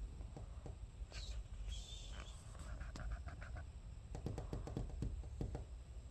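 Green-cheek conure giving short, high chirps about one and two seconds in, followed by a quick run of light clicks and taps.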